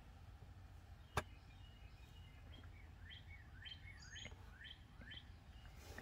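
Quiet background with a bird faintly chirping: a run of quick downward chirps in the second half. A single sharp click comes about a second in.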